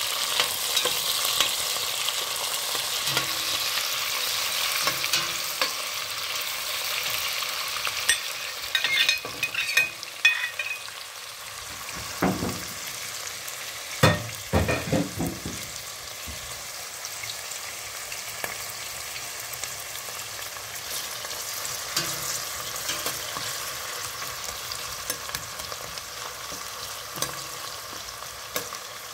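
Chopped onions, green chillies, curry leaves and mint sizzling in hot oil in a stainless steel pot, the base of a tripe curry frying. A metal spoon stirring them clinks and knocks against the pot several times around the middle, and the sizzle eases a little after that.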